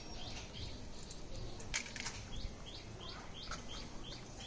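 A small bird chirping in the background, a quick series of short, high, slightly falling notes about three a second that starts about a second and a half in, with a couple of light clicks of things being handled.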